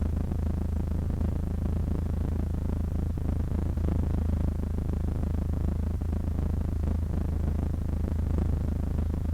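Cessna 152's four-cylinder Lycoming O-235 engine running steadily, a low, even drone that does not change.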